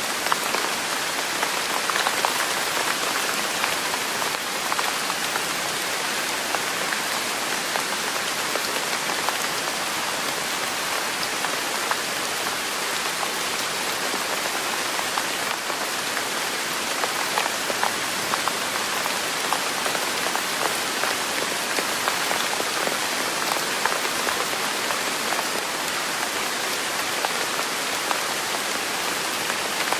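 Steady rain falling, an even hiss with many separate drops heard as small ticks on top, unchanging throughout.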